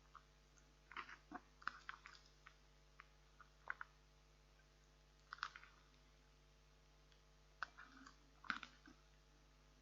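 Faint, scattered clicks and scrapes of a utensil scooping cooked rice out of a plastic microwave-meal tray onto a plate, with short pauses between strokes.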